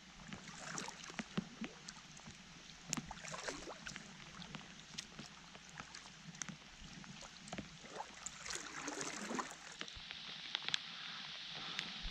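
Rain falling on the lake and the kayaks: scattered raindrop ticks over a steady hiss, with water moving around the kayak hull. The rain grows heavier about ten seconds in.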